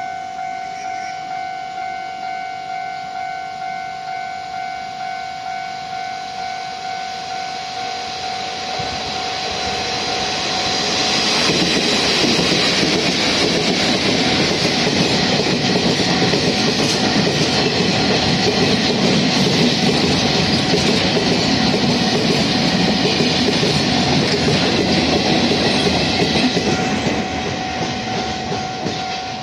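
A level-crossing warning bell rings steadily at about three rings every two seconds. From about 10 s in, a freight train hauled by an E312 electric locomotive rises to pass loudly over the crossing for around fifteen seconds, then fades near the end while the bell keeps ringing.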